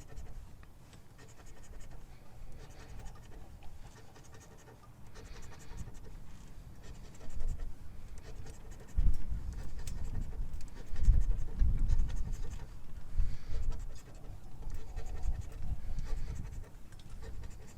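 Scratching the coating off a scratch-off lottery ticket in repeated short strokes, with heavier low bumps and rubbing through the middle and latter part.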